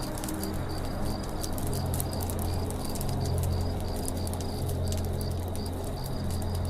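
Campfire crackling with many small sharp pops over a steady low rumble, with high chirps repeating about three times a second in the background.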